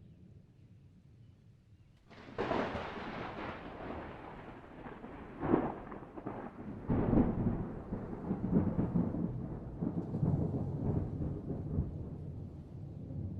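Thunder: a sudden crack about two seconds in, then a long rolling rumble with further loud peals, the strongest a little past five seconds and again around seven seconds in.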